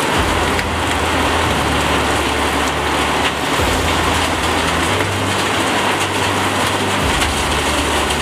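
Heavy rain pouring down in a thunderstorm downpour: a steady, loud hiss of rain with a low rumble underneath.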